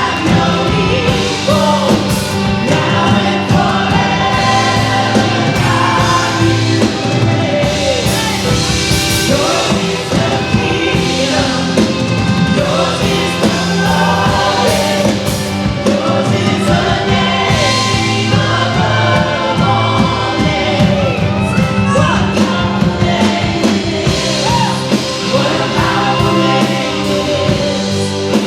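Live church worship band and singers performing a song, loud and continuous.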